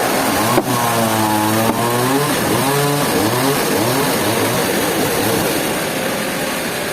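Engine running steadily. About a second in its pitch sags and comes back up, then it wavers up and down for a couple of seconds.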